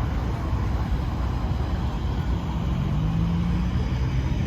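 Car engines idling with a low steady rumble; a steadier, deeper engine note comes in about three seconds in.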